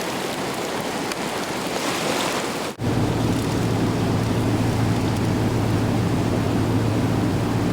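Steady rushing noise of flood-swollen water. About three seconds in it cuts off abruptly and a similar rushing noise resumes with a steady low hum beneath it.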